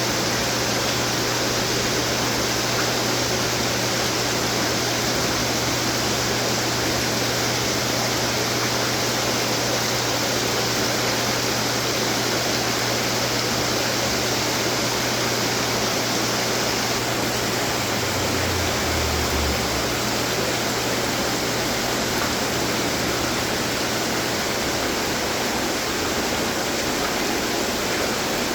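Water fountains running, a steady even rush of splashing and falling water.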